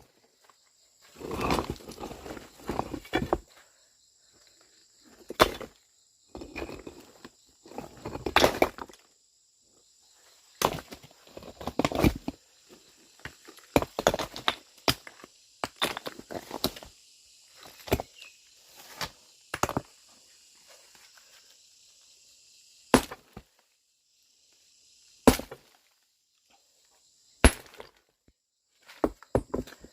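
Sharp, irregular knocks and clatters, with two longer rough scraping or rustling stretches in the first third. A steady high-pitched insect drone runs behind.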